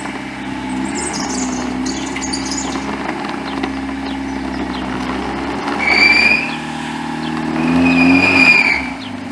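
Lowered Mazda Miata's four-cylinder engine running at low speed as the car creeps over a driveway, with two loud, high squeals, one about six seconds in and a longer one about eight seconds in.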